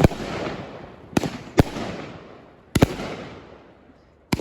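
Fireworks going off: five sharp bangs at uneven intervals, each trailing off in a fading rush of noise.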